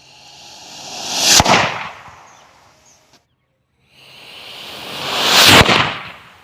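Homemade sugar rocket firing twice, with a cut between: each time a hissing rush swells for about a second and a half, peaks in a sharp crack, then dies away.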